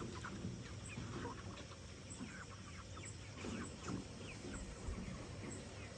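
A flock of meat chickens clucking faintly, with many short scattered calls.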